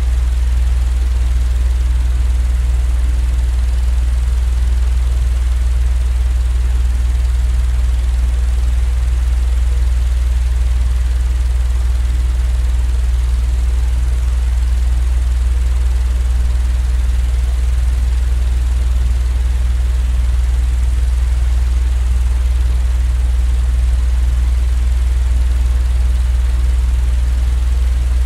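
A steady, unchanging low droning rumble with a faint even hiss above it: a continuous machine-noise sleep sound that neither rises nor falls.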